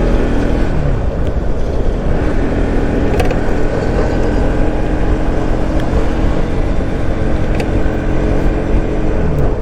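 Motorcycle engine running at steady speed, with heavy low rumble and rattling, rubbing noise from a clip-on microphone that has come loose and dropped. The engine pitch falls near the end as the bike slows.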